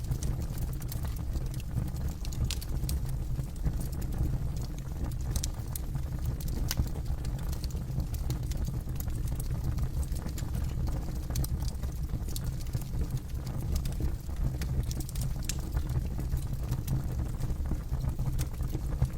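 Campfire (bonfire) burning: irregular sharp crackles and pops from the burning wood over a steady low rumble of the flames.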